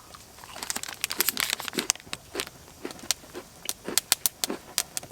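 Plastic food packaging crinkling and crackling as it is handled and opened, in a run of sharp irregular crackles.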